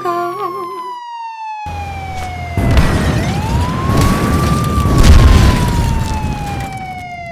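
A siren wailing, its pitch rising and falling slowly twice, over the heavy low booms of explosions that set in a couple of seconds in and are loudest around the middle.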